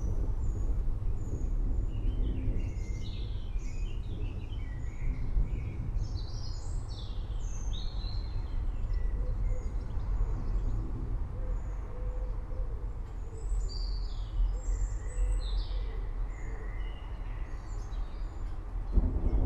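Many forest birds chirping and twittering over a steady low rumble of outdoor ambience.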